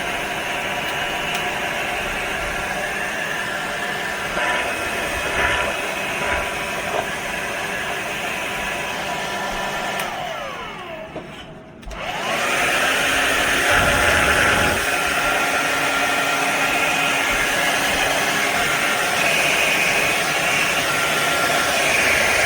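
Handheld hair dryer running with a steady rush of air and motor whine. About ten seconds in, the motor winds down almost to a stop, then it starts up again and runs louder.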